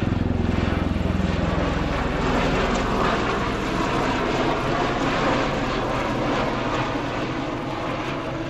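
Bell-Boeing CV-22B Osprey tiltrotor taking off in a rolling takeoff, its two Rolls-Royce AE1107C turboshafts and big proprotors at takeoff power with the nacelles set at about 80 degrees. A rapid low rotor beat is strongest for the first couple of seconds, then thins while the steady engine noise carries on, easing a little near the end.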